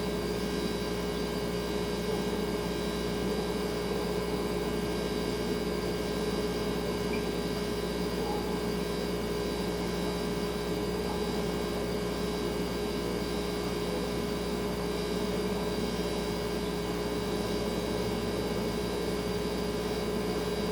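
Refrigerator humming steadily: an unchanging hum made of several steady tones over a soft, even hiss.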